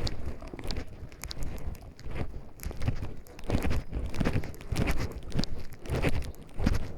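Footsteps of a person walking on a forest path, crunching at about two steps a second.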